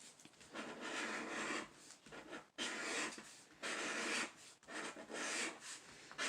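Scratching the coating off a scratch-off lottery ticket: several scraping strokes, each about a second long, with short pauses between them.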